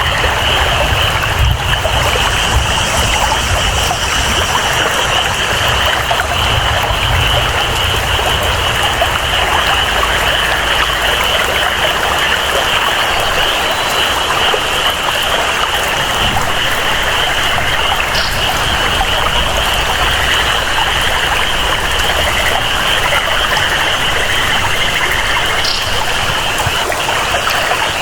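Steady rainforest ambience of rain and flowing water, with a continuous high-pitched drone above the water noise and a low rumble underneath.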